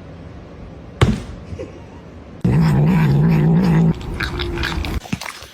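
A cat: a sudden knock about a second in, then a loud, low, wavering yowl for about a second and a half that starts and stops abruptly, followed by a quieter steady tone.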